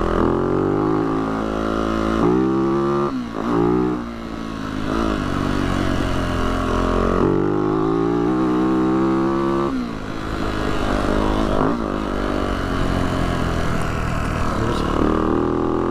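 Yamaha YZ450F single-cylinder four-stroke dirt bike engine running under way, its pitch climbing under throttle and dropping back sharply several times as the throttle is rolled off or a gear is changed.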